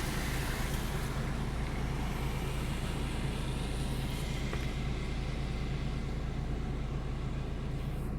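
Steady motor vehicle noise: an engine running with a low hum and a hiss over it that thins out about halfway through.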